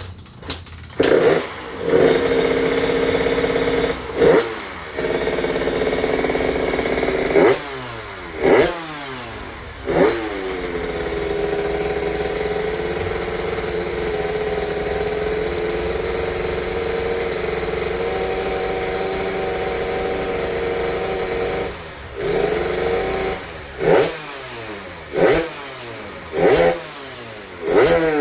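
Motorcycle engine blipped several times, then held at a steady idle, then revved in about four more quick blips near the end. The engine is said to have weak compression, with a rough 'ngorok' (snoring-like) engine noise that can hide the weak compression.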